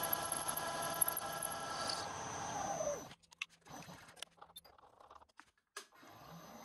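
Electric motor of a machine tool running with a steady hum, then switched off and spinning down in a falling whine about three seconds in. A few small clicks and knocks follow, and near the end the motor starts again with a rising whine.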